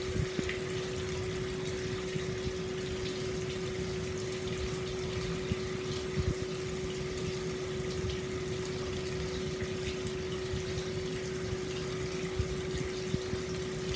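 Hot spring water pouring steadily into an open-air bath, a continuous splashing flow with small irregular splashes and a steady low hum underneath.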